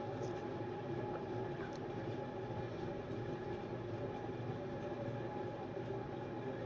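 Steady background hum and hiss from a machine, with several constant tones and no changes.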